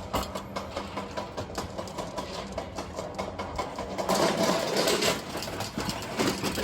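A small motor running steadily under a dense, rapid clicking rattle, louder for a second or so about four seconds in.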